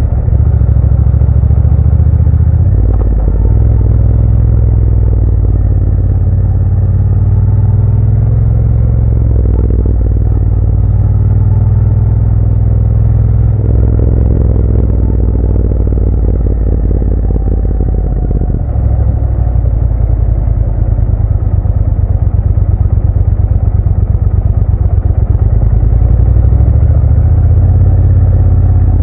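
Motorcycle engine running under way while riding, a steady low engine note that changes in steps a few times, about three, nine, fourteen and nineteen seconds in.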